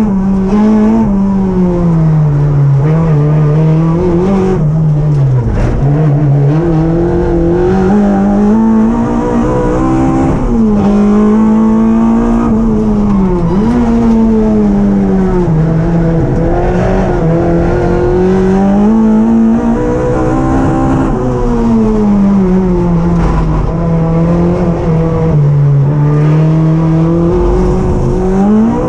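Opel Corsa GSI race car's four-cylinder engine, heard from inside the cockpit while lapping a circuit. Its pitch keeps climbing and falling as the car accelerates and slows, with sharp dips at the gear changes.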